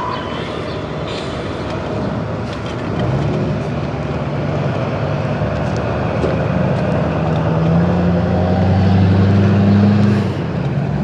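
A car engine running close by: its low note comes up about three seconds in, grows louder and rises slightly in pitch, then drops away suddenly near the end.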